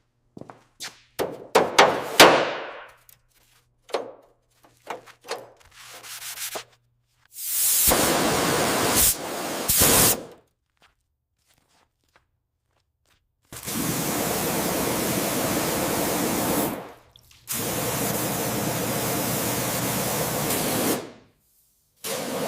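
Restoration workshop tool sounds: a run of sharp taps and knocks, then three long steady bursts of hissing noise with short silent gaps between them.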